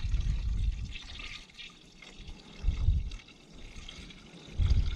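Faint trickling and sloshing of coolant at the truck's cooling system, with low rumbling bumps near the start, about three seconds in and near the end.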